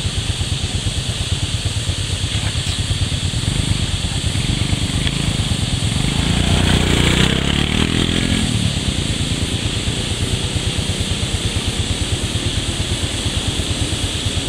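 Motorcycle engine idling close by with a fast, even putter. About six seconds in, an engine revs up and falls back over a couple of seconds.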